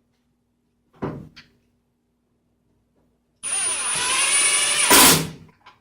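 A short knock about a second in, then a power drill driving a screw for about two seconds. The drill has a steady high whine and ends with a brief louder burst before it stops.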